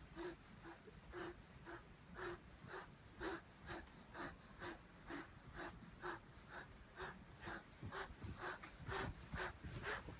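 Faint, even, rhythmic rasping of a glove rubbing, about two strokes a second, that sounds like wheezy breathing.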